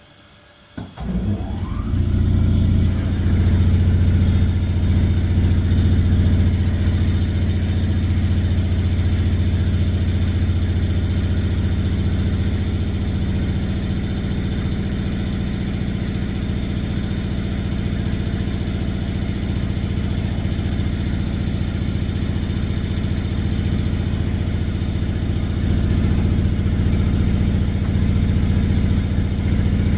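Sawmill edger's engine starting about a second in, with a brief rising spin-up, then running steadily.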